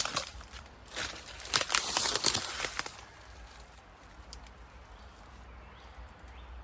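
Footsteps crunching over dry ground and brush for about the first three seconds, then quieter outdoor background with a few faint chirps.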